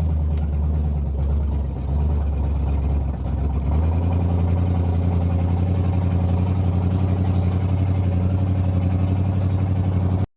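A 1970 Oldsmobile Delta 88's V8 running steadily under way, its note growing stronger and more even about four seconds in. The sound cuts off abruptly at the very end.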